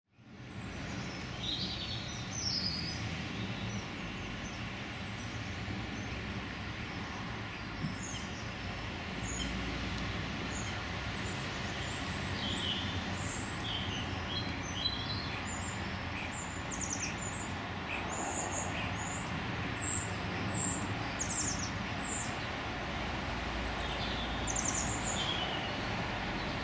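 Birds chirping and calling in short repeated notes over a steady low background rumble.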